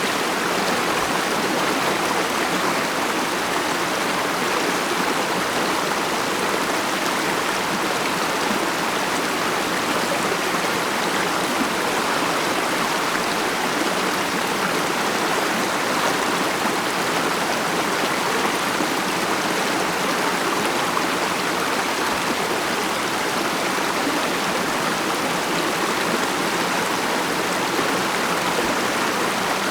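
Stream water running steadily over rocks: a continuous, even rushing and babbling.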